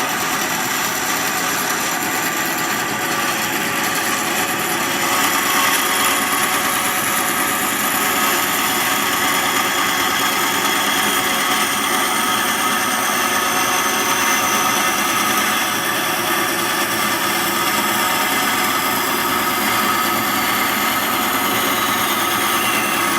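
Bandsaw running steadily, its blade cutting slowly through the wooden pipe block to rough out the shank, a constant whine with a hissing cut. The high hiss stops suddenly at the very end.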